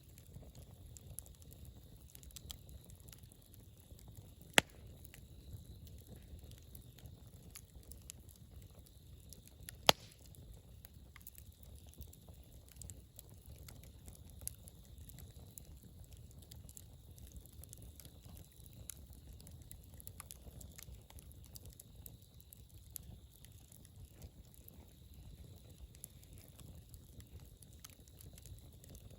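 Wood campfire crackling, with a steady stream of small snaps over a low rumble, and two sharp loud pops about four and a half and ten seconds in.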